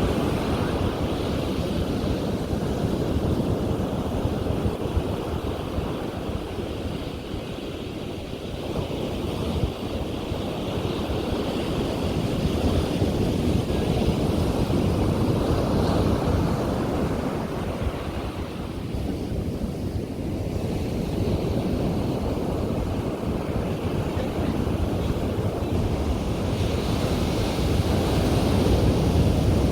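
Ocean surf breaking on a beach, a continuous wash that swells and eases every several seconds, with wind rumbling on the microphone.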